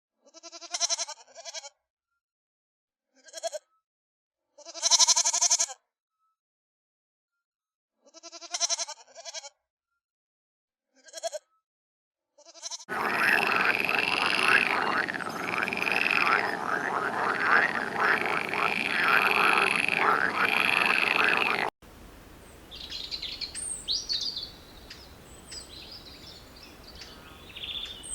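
A run of short, separate bleats with silence between them. About 13 s in they give way to a loud, dense chorus of many overlapping calls. Near 22 s this cuts abruptly to scattered bird chirps over faint outdoor background noise.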